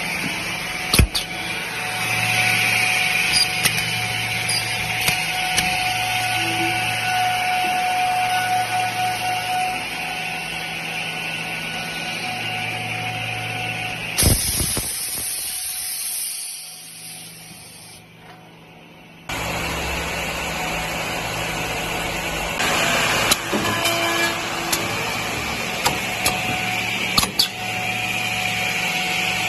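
Automatic edge banding machine running: a steady motor hum with scattered clicks and knocks from its working units. About halfway through the noise fades to a low level for a few seconds, then comes back suddenly.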